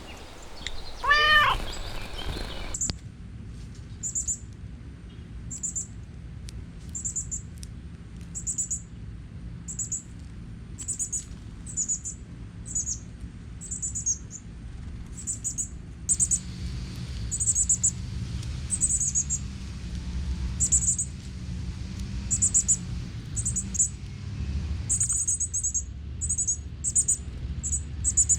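High, short bird chirps repeated roughly once a second, over a steady low rumble. Near the start, a brief pitched call sweeps up and down.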